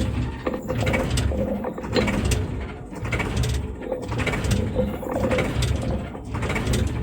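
Small battery-powered toy motor driving a gear train, running with a steady rattle of clicking gears and a low pulsing throb repeating about once a second.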